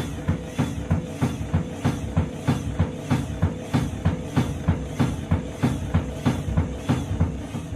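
Candy washing machine on a violent spin, its drum banging in a fast, even rhythm of about three knocks a second over a steady motor whine and low rumble. The spin is wild enough that the owner fears the machine will self-destruct.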